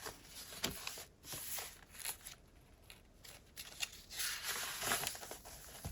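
Pages of a handmade paper junk journal being turned and handled: paper rustling with soft taps, quieter in the middle and louder again over the second half.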